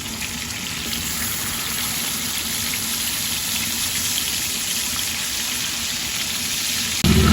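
Marinated chicken pieces frying in oil on a hot tawa, a steady sizzling hiss. Near the end a loud low hum starts abruptly.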